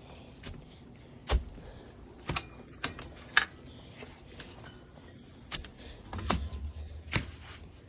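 Irregular sharp knocks and clicks, about six of them spread over several seconds, with a brief low rumble near the end.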